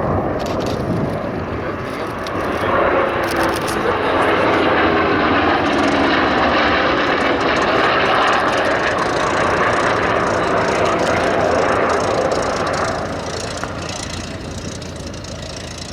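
Piston-engined warbird flying past in a display, its engine sound building about two and a half seconds in, holding loud, then fading away after about twelve seconds.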